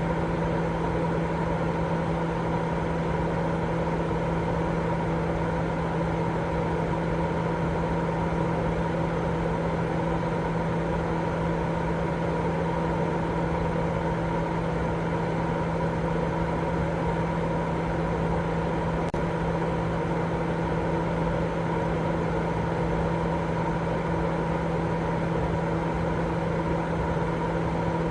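Steady baby sleep-aid noise: a dense, unchanging rush weighted toward the low and middle range, with a constant low hum running through it.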